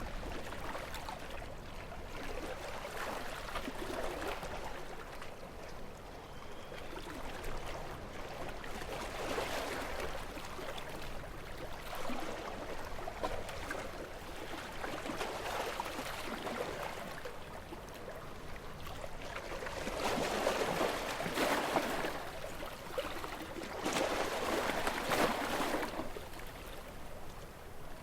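Gentle sea waves lapping and washing in, swelling every four to six seconds, with the two strongest washes near the end.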